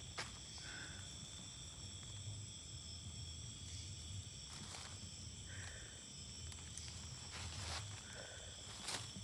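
Night insect chorus: steady high-pitched trilling of crickets at several pitches at once. A short, lower-pitched animal call sounds three times, and there are a few brief crackles of steps in undergrowth.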